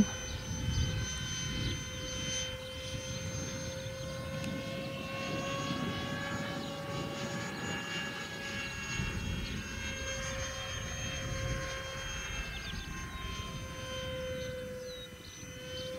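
Electric ducted fan of a 70mm EDF RC model jet in flight: a steady whine that drifts slowly up and down in pitch as the plane moves about the sky, over a low rumble of wind on the microphone.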